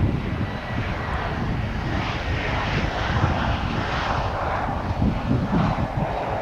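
Jet airliner's engines passing on its landing approach: a continuous rumble and hiss that swells around the middle and eases a little near the end.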